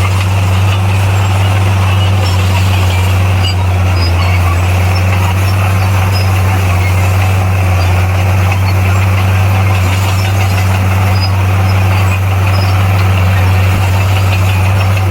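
Heavy diesel engine of earthmoving machinery running steadily with a constant low drone, holding one pitch throughout.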